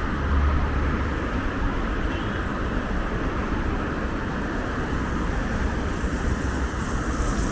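Steady city road traffic: cars passing with a low rumble, strongest about half a second in.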